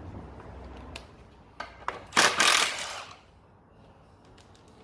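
Metal tools and bolts being handled: a few sharp metallic clicks, then a brief loud scraping clatter about two seconds in, followed by faint ticks.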